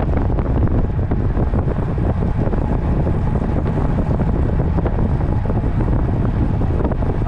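Steady, loud wind buffeting on the microphone of a road cyclist's camera while riding at speed.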